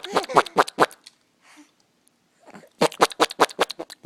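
A voice in quick repeated bursts, about seven a second, silly noises or laughter of the kind made to amuse a baby. The bursts stop about a second in and start again near the end.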